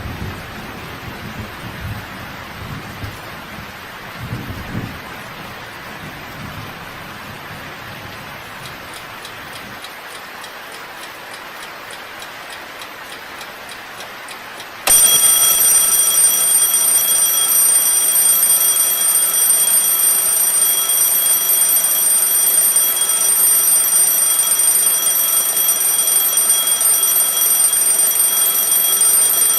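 Steady rain with low rumbles of thunder, then about halfway in an alarm clock starts ringing suddenly, much louder, and keeps ringing without a break.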